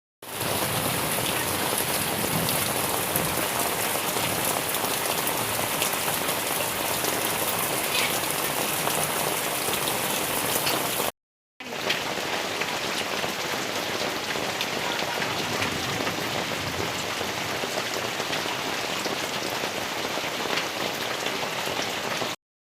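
Heavy rain falling in a steady downpour, a dense even hiss of drops on surfaces, broken once about halfway by a short cut to silence, after which it resumes a little quieter.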